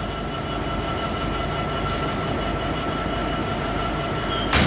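Diesel trains idle at a station with a steady rumble and a thin constant whine. Near the end a single sharp bang is heard: a train's cab door slamming shut.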